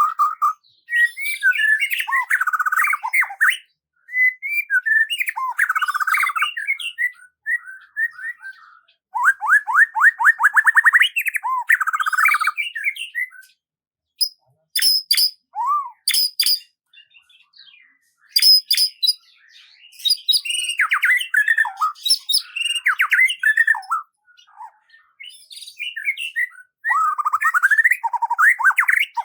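Songbird singing in separate bursts of quick, varied chirps and rapid trills, with short silent pauses between phrases and sharp high notes in the middle.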